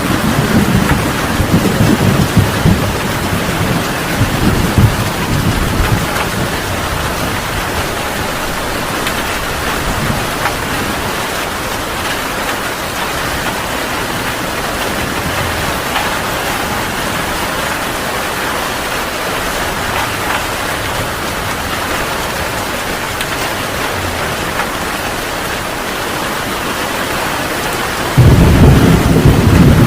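Heavy rain pouring steadily, with a rumble of thunder that dies away over the first several seconds, and a loud roll of thunder that breaks in suddenly near the end.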